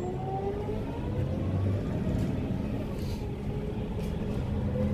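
City bus engine running, heard from inside the passenger cabin: a steady low rumble with a whine that glides up in pitch, settling into a steadier tone near the end.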